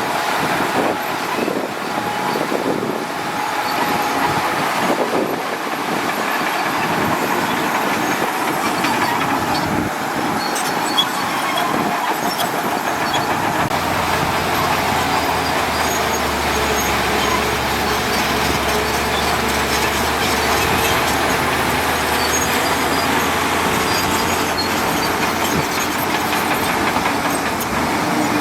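Bulldozer at work: its diesel engine running and its steel crawler tracks clanking in a steady mechanical din.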